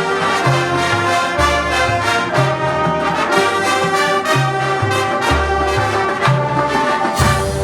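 High school marching band brass section playing a full, loud passage, with trumpets and trombones on the melody over a low bass line that moves from note to note about every half second.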